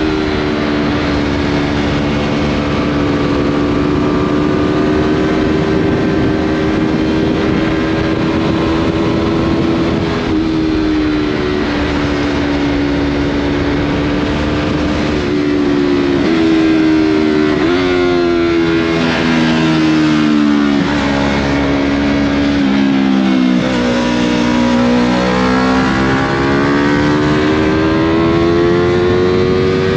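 Yamaha MT-03 motorcycle engine running through a Scorpion full aftermarket exhaust while riding. It holds a steady pitch for about ten seconds, then changes gear several times, slows with a falling pitch in the middle, and rises again as it accelerates near the end.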